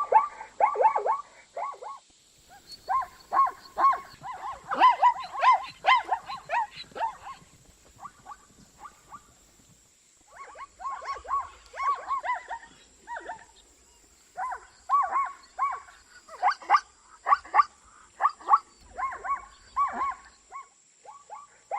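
Zebra calling: bouts of rapid, repeated barking yelps, broken by short pauses.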